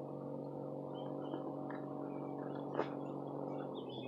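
Electric trolling motor running with a steady hum, with one sharp click about three seconds in.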